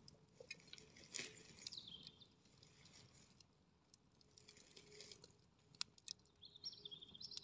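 Near silence with faint bird chirps: a falling call about two seconds in and a run of high chirps near the end, with a couple of sharp clicks about six seconds in.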